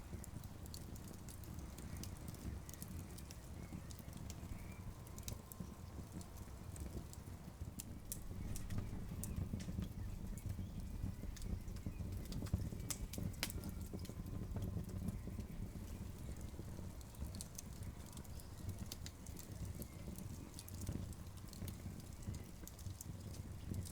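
Campfire burning, with irregular sharp crackles and pops over a low steady rumble, the crackling a little busier in the middle.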